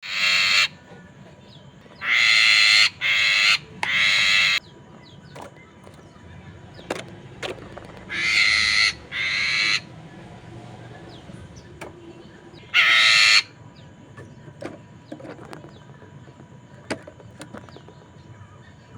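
Poksay mandarin laughingthrush giving loud, harsh calls in short groups: one at the start, three in quick succession about two to four seconds in, two around eight to ten seconds, and one near thirteen seconds, with faint short chirps and clicks between.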